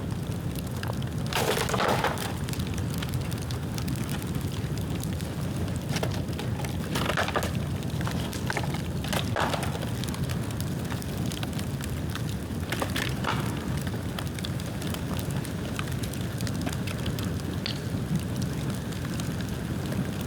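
Dry dead bamboo and bamboo branches burning in an open bonfire: a continuous crackle of small sharp snaps, with a few brief louder flares about 1.5, 7, 9 and 13 seconds in.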